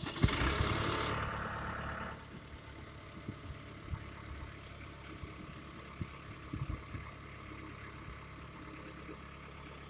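An engine idling steadily, a low even hum with a few soft knocks, after a loud rushing noise that fades out over the first two seconds.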